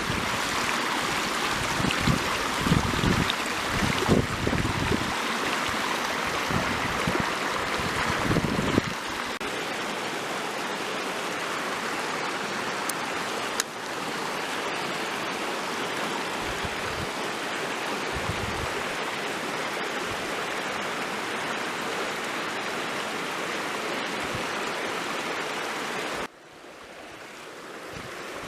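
Mountain headwater stream rushing over rocks, a steady wash of water noise, with low rumbling thumps during the first nine seconds. The rush drops away suddenly near the end and swells back.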